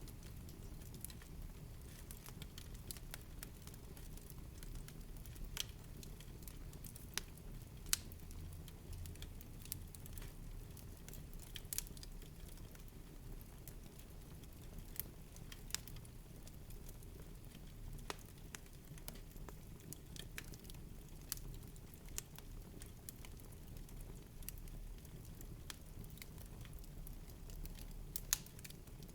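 Wood fire burning in a fireplace: a low steady rumble of the flames with irregular sharp crackles and pops, a few louder snaps among them.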